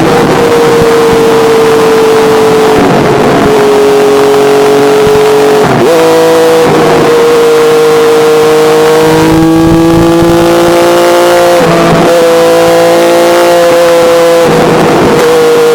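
Honda CBX inline-six motorcycle engine running loudly at steady high revs, the revs dipping and recovering briefly about every three seconds.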